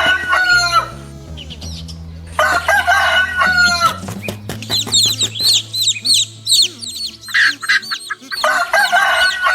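Rooster crowing three times, each crow about a second and a half long, with a run of rapid high-pitched chirps between the second and third crow.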